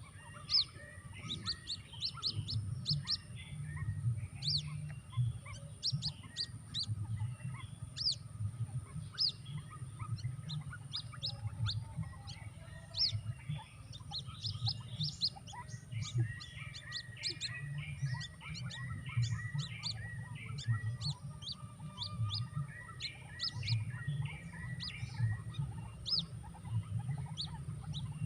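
White-breasted waterhen chick calls: a dense, continuous run of short, sharp, high peeps, some rising and some falling. These are the calls used as a lure for the adult birds. A steady low hum runs underneath.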